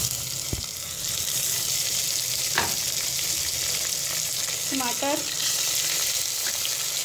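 Onions and oil sizzling steadily in an aluminium pot while ginger-garlic paste is stirred in with a wooden spatula. A few brief knocks and scrapes of the spatula against the pot sound over the hiss.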